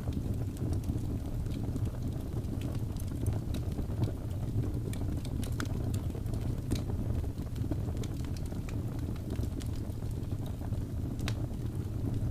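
Wood fire burning in a fireplace: a steady low rumble of the flames with scattered sharp pops and crackles of burning logs.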